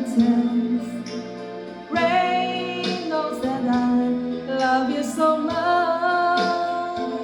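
A song: a female voice sings long, wavering held notes, without clear words, over instrumental accompaniment.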